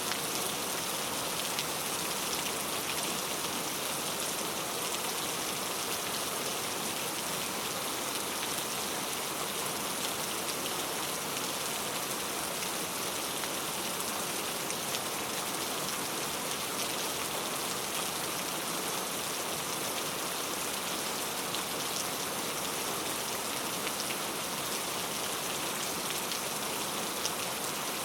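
Heavy rain falling steadily on mango tree leaves, a dense even patter of drops.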